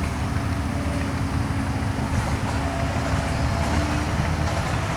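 Machinery running, a steady low rumble with a few held tones.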